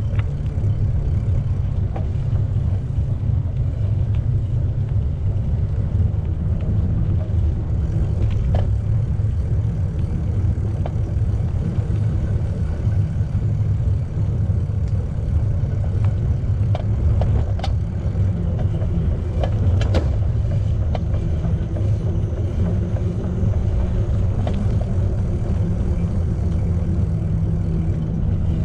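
Steady low rumble of wind and rolling noise on the microphone of a camera riding along on a moving bicycle, with a few sharp clicks and rattles from the bike over bumps.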